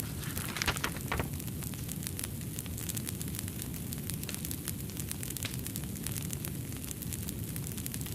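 Wood fire burning in a fireplace: a steady low rumble of flames with frequent small sharp crackles and pops. A brief scratchy rustle sounds about a second in.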